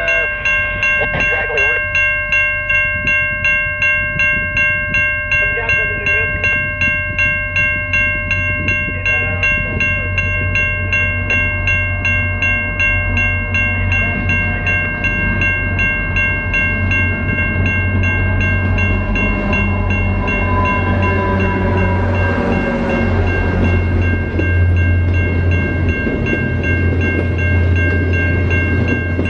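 Level crossing warning bells ringing rapidly and steadily as a train approaches and passes the crossing, its locomotive's low engine rumble growing louder through the second half.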